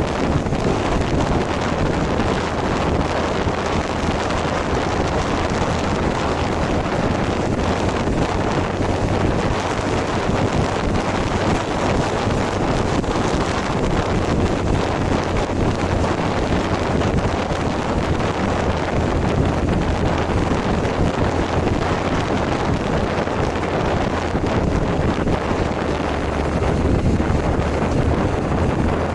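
Heavy wind noise on the microphone of a moving Kawasaki ZZR1100 motorcycle, with the bike's inline-four engine running steadily underneath.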